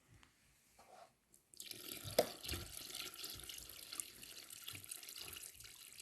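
Water pouring steadily into a container, starting about one and a half seconds in: water being added to make masonry mortar.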